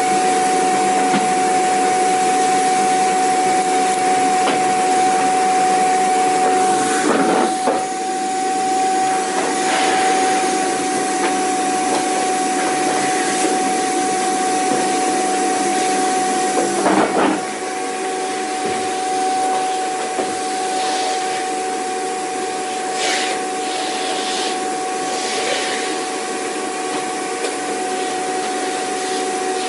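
Vacuum cleaner running steadily: a rush of air with a steady whine from the motor. It wavers briefly twice, and after the second change, about two-thirds of the way through, it runs a little quieter.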